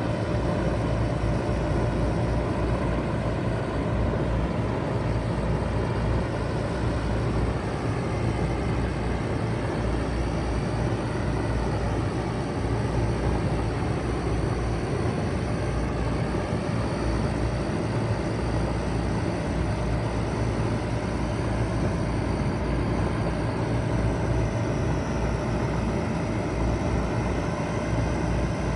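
2001 Bard 5-ton wall-hung heat pump running steadily in heat mode: the compressor's low, even hum under the steady rush of the fan.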